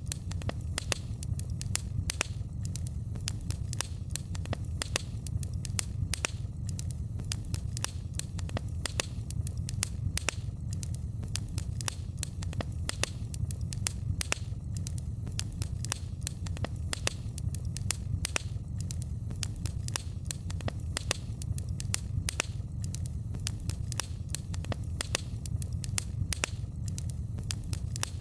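Fireplace fire crackling, with a steady stream of sharp pops several times a second over a low, even rumble.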